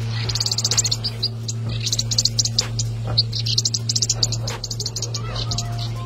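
Small bird's rapid, high-pitched chattering calls in short, irregular bursts: the distress of a parent bird whose nest is being raided by a snake. A steady low hum runs underneath.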